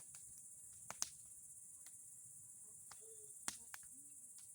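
Bonfire of old boards and pine cones crackling quietly, with four sharp pops: two close together about a second in and two more around three and a half seconds. A steady high-pitched hiss runs underneath.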